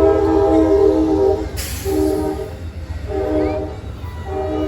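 An Amtrak Northeast Regional passenger train's horn sounding a series of chorded blasts. A long blast ends about a second and a half in, two short blasts follow, and another long blast starts near the end. A brief burst of hiss comes between the first two blasts.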